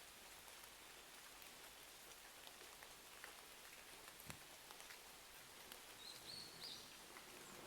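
Faint steady rain with scattered small ticks and pops from a crackling fireplace, one pop a little louder about four seconds in. A few short high chirps come through near the end.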